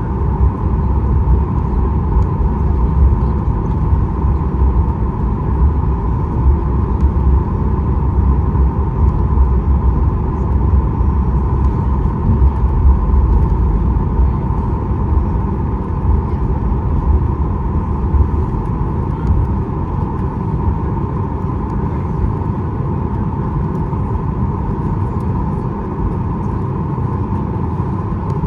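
Steady cabin noise of a Boeing 737 MAX 8 taxiing on the ground: a low rumble with a steady mid-pitched hum from the idling engines and air systems. The rumble eases slightly about two-thirds of the way through.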